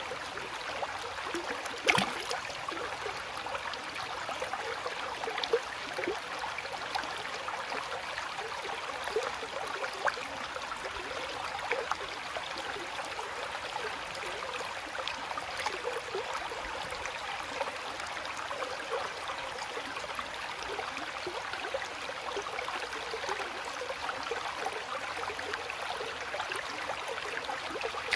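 Shallow water flowing and babbling steadily, with many small splashes and trickles and one sharper, louder splash about two seconds in.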